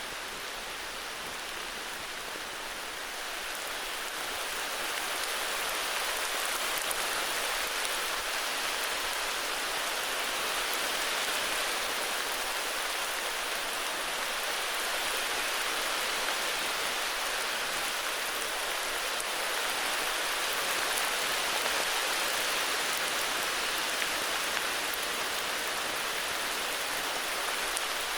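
Heavy rain falling steadily, growing a little louder about five seconds in.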